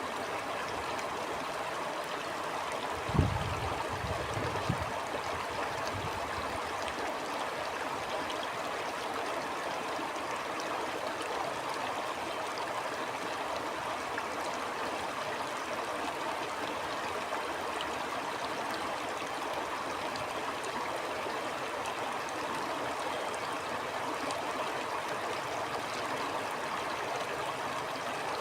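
Stream flowing steadily over rocks, an even rush of water. About three seconds in there is a sharp low thump, followed by a few softer low thumps over the next few seconds.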